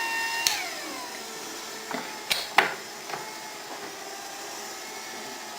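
Inverter-driven motor of a homemade milling machine whining at speed; after a click about half a second in, the whine glides down in pitch as the motor slows to a lower speed. A few sharp clicks follow, over a fainter steady whine.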